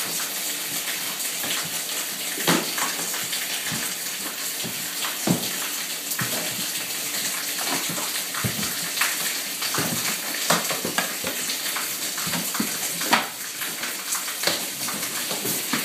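A wall being pulled apart by hand: irregular knocks and cracks of breaking wall material over a steady crackling hiss.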